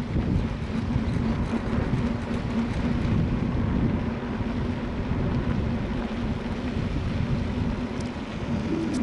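Strong wind buffeting the microphone, a steady low rumble that flutters and gusts unevenly.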